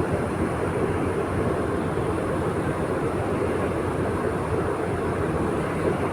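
Steady, unbroken rumble of a ship under way heard from the stern: the drone of its engine mixed with the rush of its churning wake.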